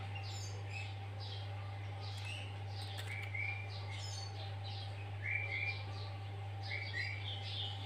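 Sooty-headed bulbul (kutilang) singing a fast run of chirps and trills mixed with phrases copied from greater green leafbird song. Three louder short whistled notes stand out, about three, five and seven seconds in, over a steady low hum.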